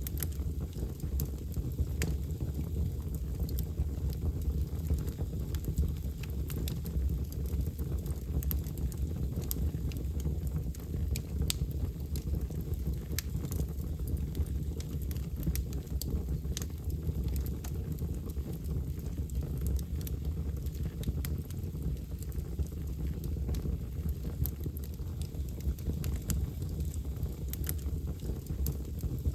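Fire burning in a fireplace: a steady low rumble with sharp crackles and pops at irregular intervals.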